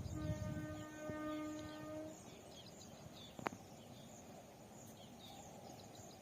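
A train horn held on one steady note that cuts off about two seconds in, with birds chirping and a single sharp click near the middle.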